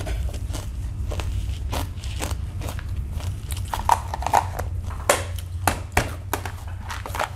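Close-up chewing and crunching of a crunchy snack mix, heard through a clip-on microphone, with sharper clicks and snaps from a plastic snack container's lid being handled near the middle. A steady low hum runs underneath.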